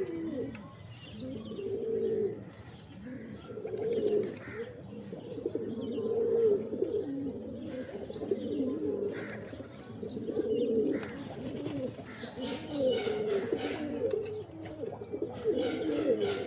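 Pigeons cooing: repeated low, wavering coos, one after another, with a few faint higher chirps among them.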